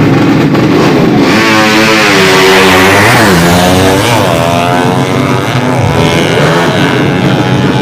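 Drag-racing motorcycles with 200cc engines running hard. The engine pitch climbs and drops several times between about one and five seconds in.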